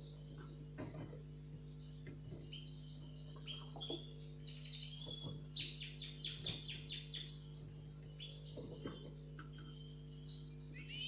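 Young caged songbirds singing: scattered short chirps, and about five seconds in a fast trill of about ten notes. A steady low hum runs underneath.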